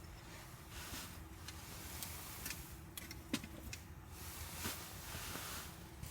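Wood campfire crackling: a few sharp, scattered snaps over a soft hiss.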